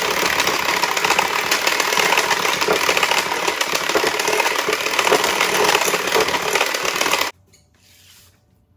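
Electric hand mixer running on medium speed, its beaters creaming butter with brown and white sugar in a glass bowl, then switched off abruptly about seven seconds in.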